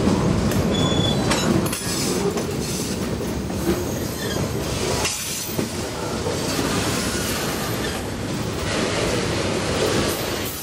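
Freight cars rolling past close by: a steady rumble of steel wheels on the rails, with irregular clicks and clacks at the rail joints and a short, faint wheel squeal.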